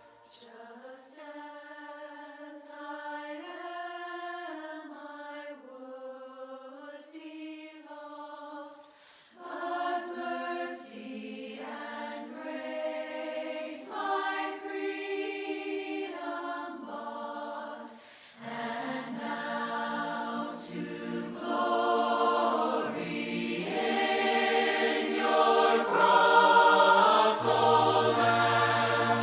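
A cappella hymn sung by a group of voices in harmony, without instruments. It starts softly and grows fuller and louder as more voices come in, about nine seconds in and again at about eighteen seconds.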